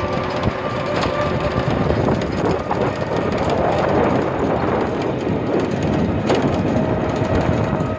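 Steady running rumble of a moving vehicle, with a faint steady whine.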